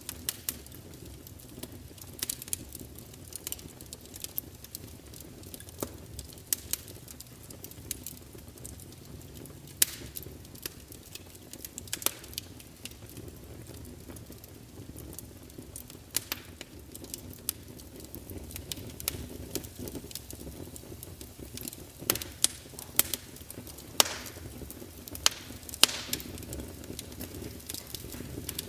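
Wood fire crackling: irregular sharp pops and snaps of burning logs over a low steady rush of flame, with a cluster of louder snaps in the last several seconds.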